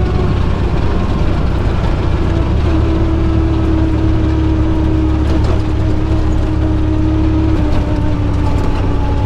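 Side-by-side UTV engine running steadily as it drives along a rough trail, with a steady whine that comes in about three seconds in and drops slightly in pitch near the end.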